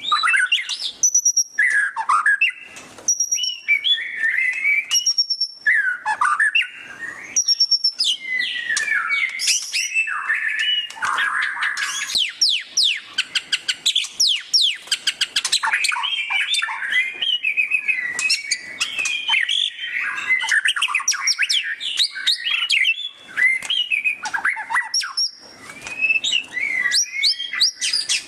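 White-rumped shama (murai batu) singing loudly: a continuous varied song of whistled phrases and fast chattering trills, the rapid 'ngeriwik' style.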